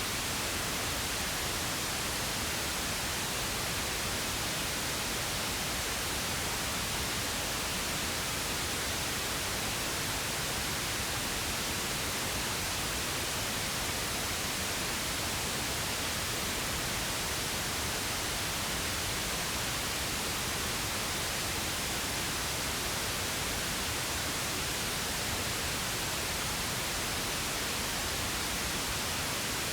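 Steady synthetic pink noise: an even, unchanging hiss with no other sounds.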